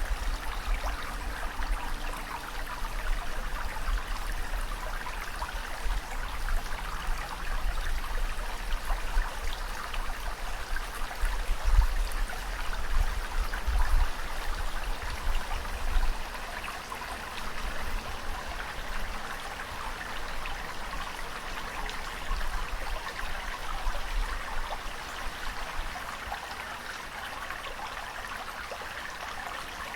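Steady rushing of ocean water, with a low rumble that comes and goes through the first half and dies away after about sixteen seconds.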